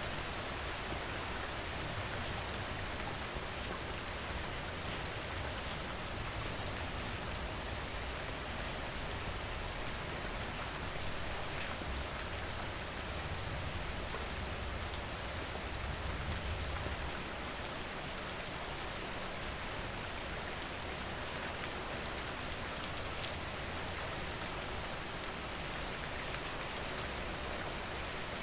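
Steady heavy rain falling, with the sharp ticks of single drops hitting nearby surfaces over the constant wash.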